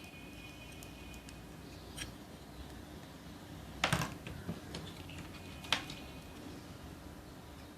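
A few light clicks and knocks of printer parts being handled during disassembly, the loudest a short double knock about four seconds in, over a faint steady background hum.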